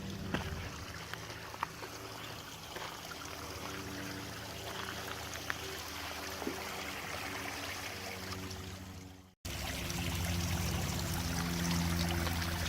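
Small woodland brook running and trickling over little waterfalls, a steady rushing of water with a few faint clicks. It cuts out briefly about nine seconds in and comes back louder.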